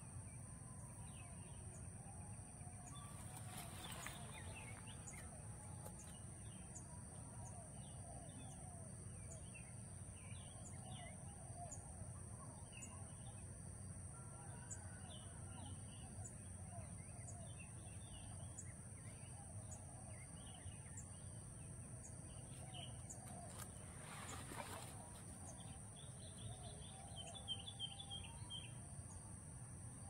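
Faint high chirps and twitters of small birds scattered throughout, with a quick run of chirps near the end, over a steady high-pitched whine and low background rumble.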